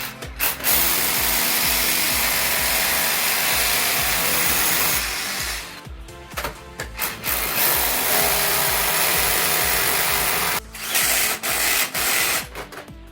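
Electric power drill running in two long stretches of several seconds each, then several short bursts near the end, over background music.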